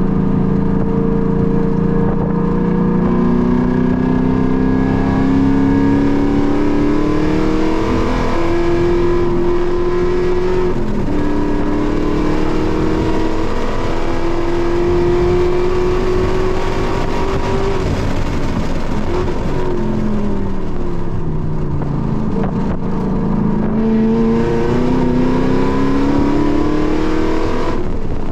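Car engine heard from inside the cabin under hard acceleration on a race track, its pitch climbing with short drops at the gear changes. About two-thirds of the way through the pitch falls as the car slows, then it climbs again as it accelerates.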